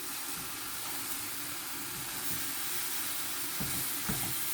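Vegetables sizzling steadily as they stir-fry in a hot pan, with a few light knocks near the end.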